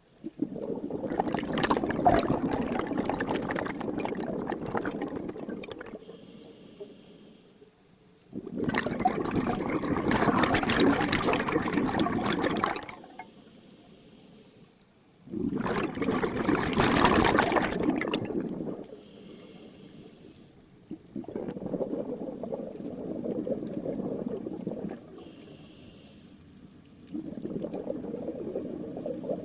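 Scuba diver breathing through a regulator underwater: five long gurgling rushes of exhaled bubbles, each a few seconds long. Between them come short, faint hissing inhalations.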